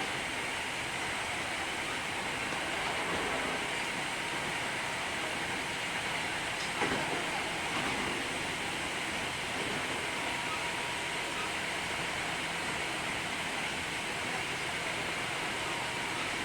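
Hankyu 3300 series electric train running at a steady speed, heard from inside the car as an even rumble and hiss of wheels on rail with a faint steady tone. There is a single brief knock about seven seconds in.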